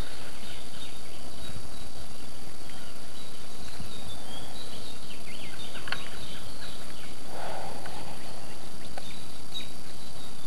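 Steady outdoor noise with short, high chirps from small birds scattered throughout, a sharp click about six seconds in, and a brief rustle a little later.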